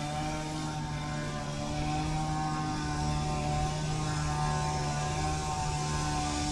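Steady mechanical hum made of several held tones, growing slightly louder about two seconds in.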